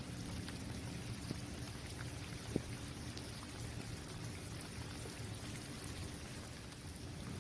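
Steady rain falling on a basketball court: an even hiss of rain with scattered drop ticks, and one sharper tap about two and a half seconds in.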